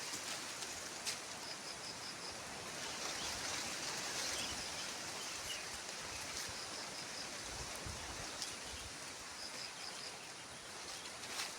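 Outdoor forest ambience: a steady hiss of background noise, with a short, high call of four quick notes heard three times.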